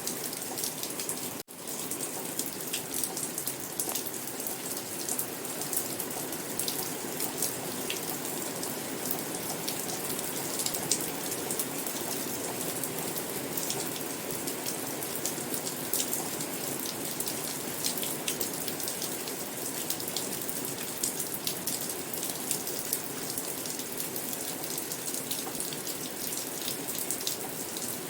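Steady rain falling, with many close drops ticking on a surface.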